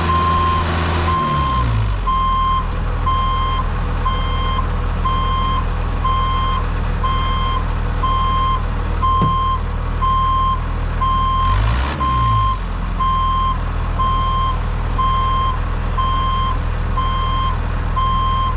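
A vehicle's reversing alarm beeping steadily, about four beeps every three seconds, over a running diesel engine. The engine's revs drop about a second in and briefly dip and rise again near the twelve-second mark.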